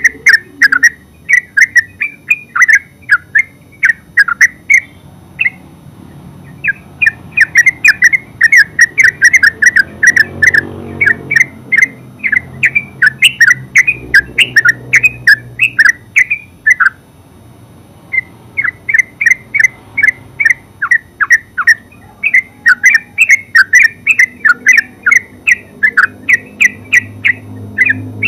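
Yellow-vented bulbul calling in long, rapid strings of short, sharp notes, several a second, breaking off briefly about five seconds in and again near seventeen seconds.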